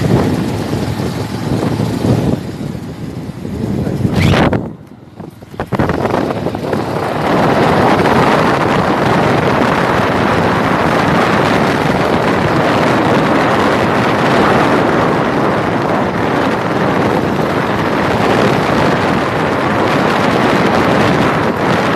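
Wind and road noise from a moving motorcycle, a steady rushing over the microphone. It drops out briefly about five seconds in, then returns, louder and steady.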